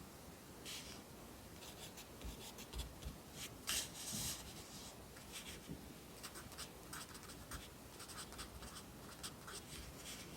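Pencil writing on paper: short scratchy strokes and taps in quick clusters, with a louder stroke about four seconds in.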